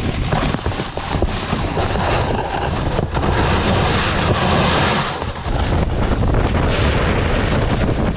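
Wind buffeting the microphone: a loud rumble and hiss, with a brighter hiss and less rumble for a few seconds in the middle.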